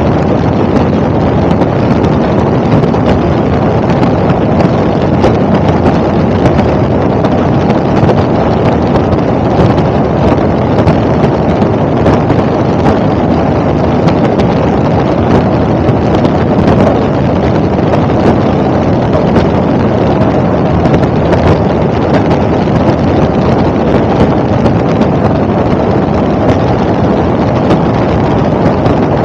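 Helicopter in flight: steady, loud engine and rotor noise without a break.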